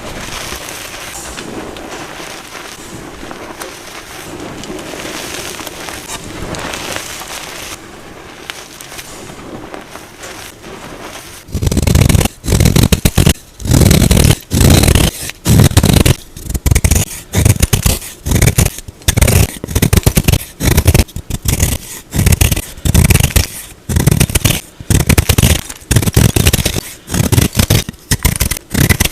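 A block of plain gym chalk being scraped and crumbled in a steady, crackly stream, then from about a third of the way in crushed in a run of loud, separate crunches, roughly one or two a second.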